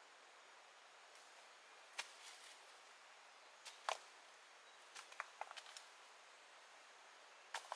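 Scattered sharp knocks and clicks over near silence: one at about two seconds in, a pair near four seconds, a quick run of them around five seconds, and one more near the end.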